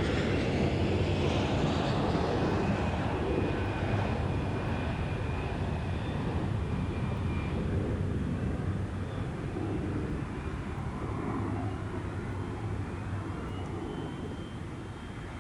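Jet airliner's engines on a departure from the runway, a steady rush that slowly fades as the aircraft moves away, with faint whining tones that drift slightly higher in pitch.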